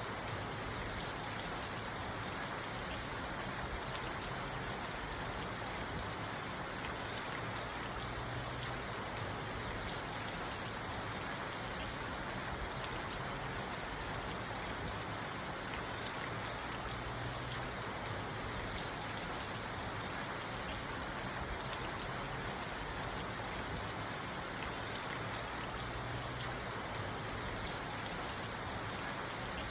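Steady rain drumming on a parked car's roof and windows, heard from inside the car, with no thunder.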